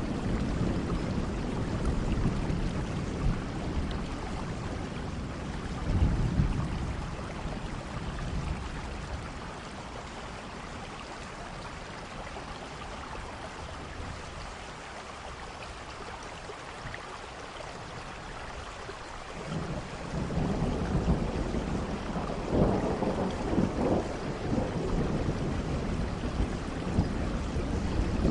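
Steady heavy rain with rolling thunder. A thunder rumble comes about six seconds in, the rumbling eases for a while, then rolls in again from about twenty seconds in.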